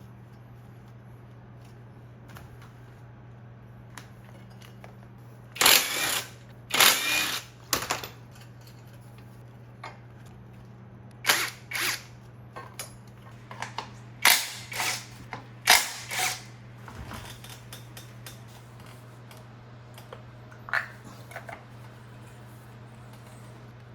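Short bursts of hand-tool and power-tool noise, sharp clacks and rattles in several clusters, during motorcycle disassembly, over a steady low hum.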